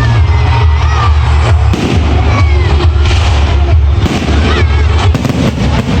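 Loud music with a heavy bass blaring over a fireworks display, with repeated bangs of fireworks bursting and crowd voices.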